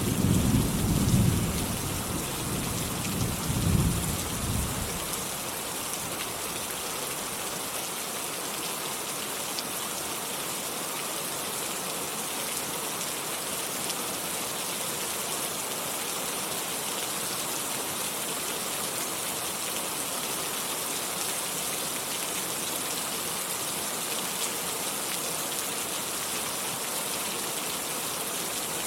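Steady heavy rain falling, with a low roll of thunder rumbling in the first five seconds that swells twice before fading, then rain alone.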